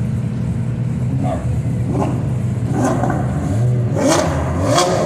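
Car engine running and revving, its pitch rising and falling from about a second in, with three short sharp noises in the second half.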